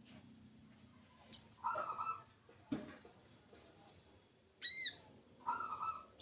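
Small birds calling in short, high chirps and whistles with pauses between, including a pair of falling whistles and one loud arching chirp about two-thirds of the way in.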